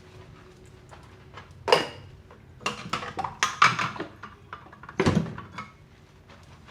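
Dishes knocking and clattering against each other while being washed by hand: a sharp knock, a run of rattling clinks, then one more knock.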